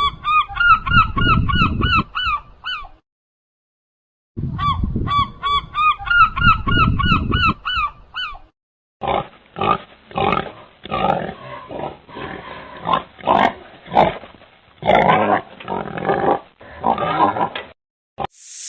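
Waterfowl honking in a fast run of repeated, bending calls, heard in two bursts with a short gap between them. These are followed by a rougher stretch of irregular animal calls.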